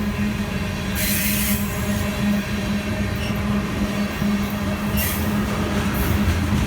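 Freight train of tank cars rolling slowly through a siding, with a steady low hum and brief bursts of high hissing wheel and flange noise about a second in and again around five seconds.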